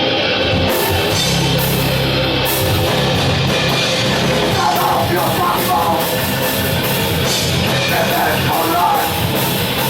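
Grindcore band playing live: loud, dense distorted guitars and drums, with harsh vocals coming in about halfway through and again near the end.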